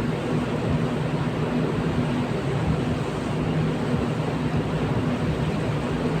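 Steady low drone of a merchant ship's engines and machinery under way, with an even rush of noise over it.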